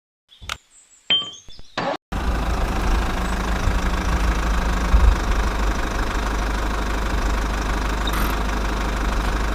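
A few short clicks and a brief high falling whistle, then a small engine starts running abruptly about two seconds in, a steady low rumble that cuts off suddenly at the end.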